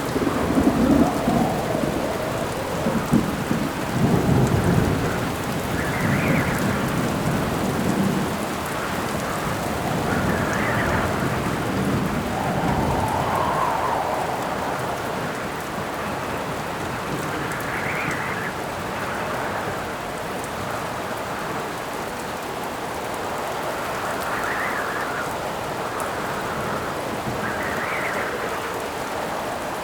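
Steady heavy rain with a rolling rumble of thunder, loudest in the first few seconds and fading. Gusts of wind swell and die away every few seconds over the rain.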